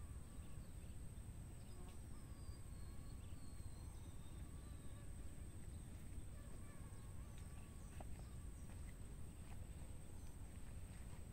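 Faint riverside ambience: a steady high-pitched insect drone, with a few faint short chirps above it and a low rumble underneath.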